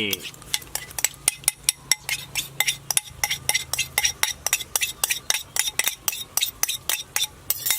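A spoon scraping and knocking food scraps out of a bowl into a compost bucket: a fast run of sharp clinks, about five a second.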